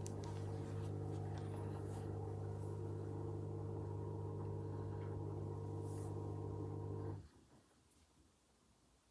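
Hoover H-Wash 300 washing machine running with a steady electric motor hum, which cuts off suddenly about seven seconds in.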